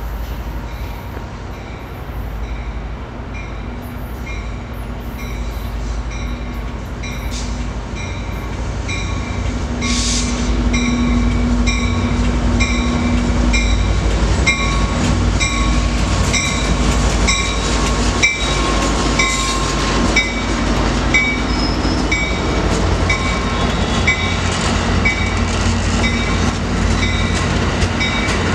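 A train running past, its low rumble growing louder over the first half and then holding steady. Through it a high, ringing note repeats evenly about every three-quarters of a second.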